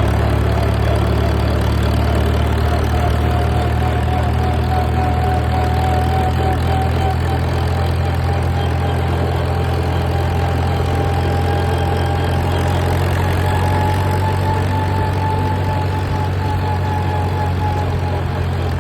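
Engine running steadily at a constant speed, with a thin whine above the hum that rises slightly in pitch.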